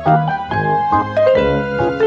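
Background music: a piano-like keyboard melody with a bass line, several notes a second.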